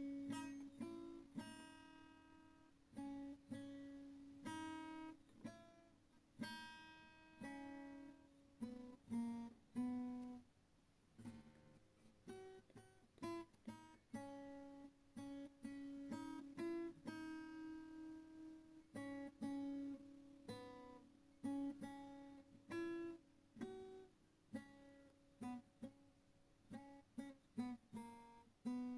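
Background music: an acoustic guitar playing a steady run of single plucked notes that ring and die away.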